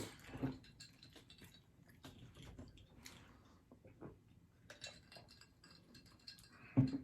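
Close-miked chewing and mouth sounds of people eating air-fried catfish and fries: soft irregular smacks and small clicks, with a brief louder low sound near the end.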